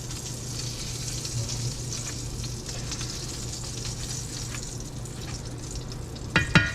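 Hot grease sizzling steadily in a frying pan, as the strained flour-and-crumb drippings go back into about a quarter cup of steak grease to start a gravy. A couple of sharp knocks near the end.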